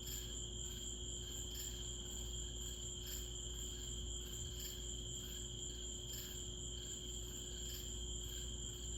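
Night chorus of crickets and other insects: a steady high trill with a gently pulsing chirping over it. A low steady hum runs underneath, and there is no thunder.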